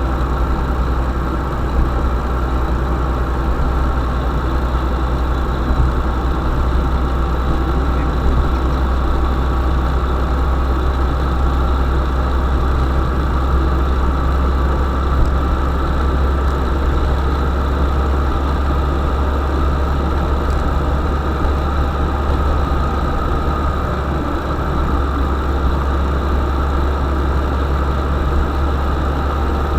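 UAZ-452 'Bukhanka' van's engine running steadily, a deep, even drone with no change in speed.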